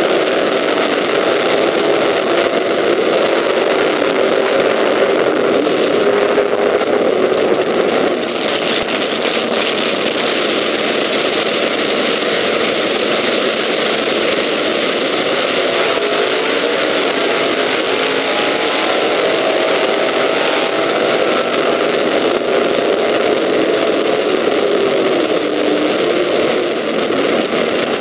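Drag-racing V8 engines with open headers running at idle, a steady loud rumble whose pitch rises and falls slightly now and then.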